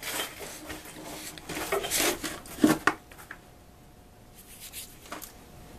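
Rustling and scraping as things are handled at the water heater, with a sharp click about two and a half seconds in and another near the end; quieter after about three seconds.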